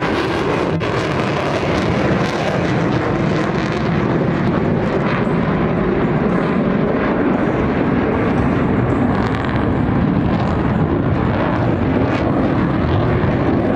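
Loud, steady jet engine noise from Blue Angels display jets in flight.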